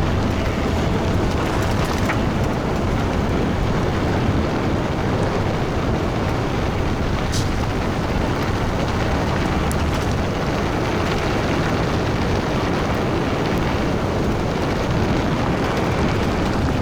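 Steady wind rumble buffeting an action camera's microphone, with the rolling noise of a ride on an electric fatbike.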